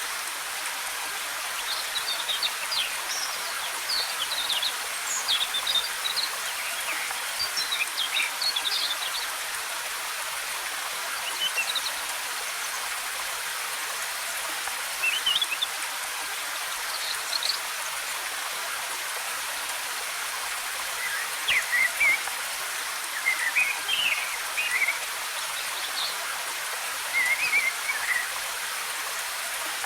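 Steady rush of falling water, with short, scattered bird chirps over it in several bursts.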